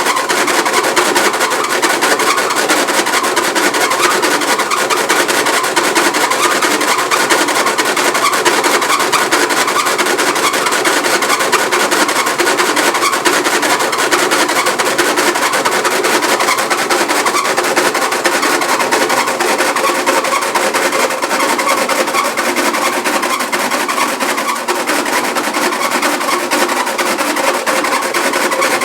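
Frigidaire washing machine running with a loud, continuous rapid rattling and knocking, the excessive noise and vibration the owner is complaining of.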